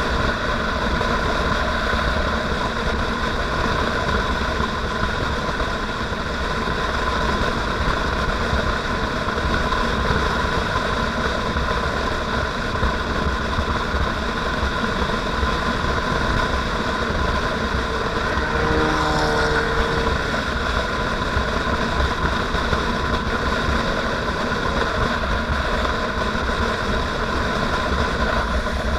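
Motorcycle engine running steadily at cruising speed, with a low rumble. A short pitched sound rises over it about two-thirds of the way through.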